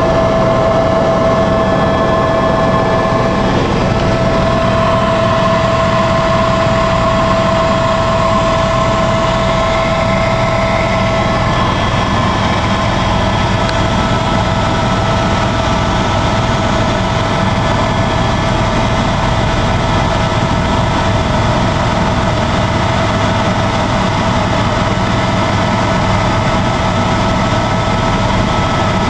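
Helicopter engine and rotor noise: a loud, steady drone with a few constant whining tones on top, unbroken throughout.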